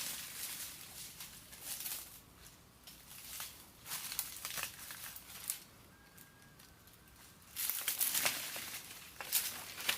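Intermittent rustling and crinkling with small crackles, louder over the last couple of seconds. A faint brief whistle comes a little past the middle.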